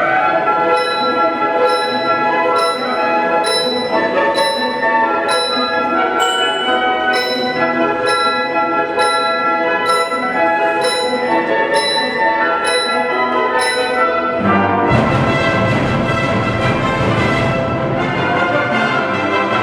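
Youth symphony orchestra playing, with brass over a high, bell-like percussion stroke about once a second. About fifteen seconds in, the sound thickens into a denser, noisier passage.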